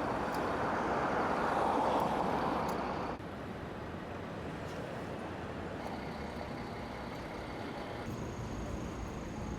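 Street traffic noise: a vehicle passing swells and fades over the first few seconds, then, after a sudden change, a steadier, quieter traffic hum.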